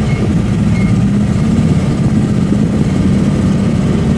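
The 1967 AMC Rambler Rebel's dealership-built 390 cubic-inch V8 drag engine running steadily at low speed, heard from inside the cabin; its carburetors are running a little rich.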